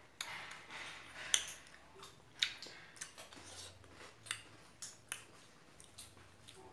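Close-miked chewing of fresh strawberries: irregular wet mouth clicks and smacks, a few of them sharp.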